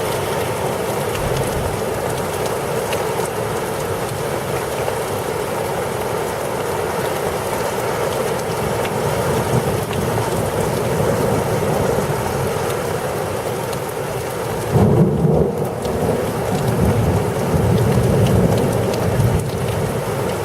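Heavy rain pouring steadily during a thunderstorm, with thunder rumbling about three-quarters of the way through and again near the end.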